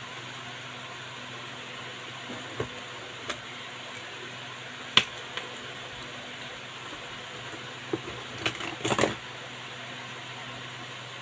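Steady low hum and hiss with scattered sharp clicks and knocks of handling, the loudest about five seconds in and a quick cluster of them near nine seconds.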